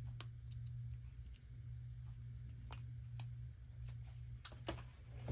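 A few light, sharp clicks and taps of plastic parts being handled and fitted together, spaced irregularly with a small cluster near the end, over a steady low hum.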